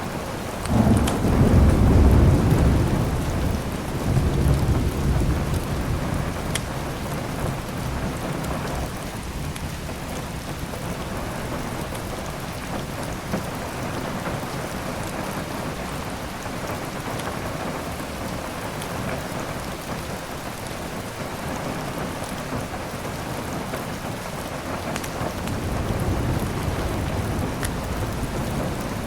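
Steady heavy rain with thunder: a deep rumble rolls in about a second in and dies away over several seconds, and a softer roll of thunder comes near the end.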